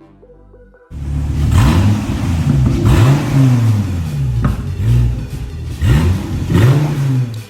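Car engine revving repeatedly, its pitch climbing and dropping again several times. It starts abruptly about a second in and cuts off suddenly at the end.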